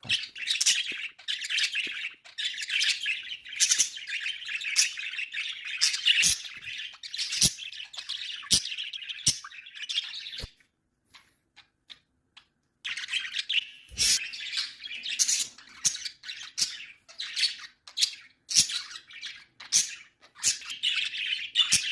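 Pet budgerigars chattering and chirping in quick, high warbles, with some sharp clicks among them. The chatter breaks off for about two seconds midway, then starts again.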